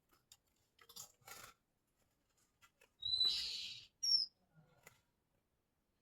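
Rembetuk laut bird calling: about three seconds in, a short whistled note runs straight into a buzzy, rasping note lasting under a second, followed quickly by a brief high falling whistle. A few faint clicks come about a second in.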